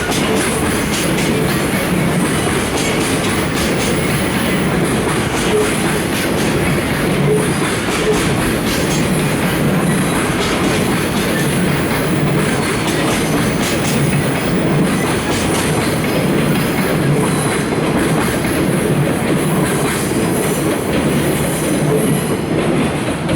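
Container wagons of a freight train rolling past: steady wheel-on-rail noise with a clickety-clack over the rail joints and some light wheel squeal.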